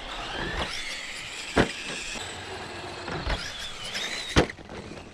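Electric motor of a radio-controlled car whining, rising and falling in pitch as the throttle changes, with two sharp knocks, one about a second and a half in and one near the end.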